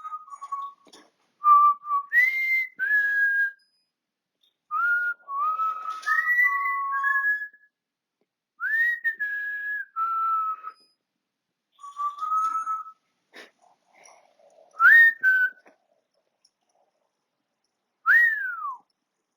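African grey parrot whistling a tune in about seven short phrases of clear notes, each phrase with a few steps and slides up and down in pitch and pauses between them; the last phrase is one note sliding down.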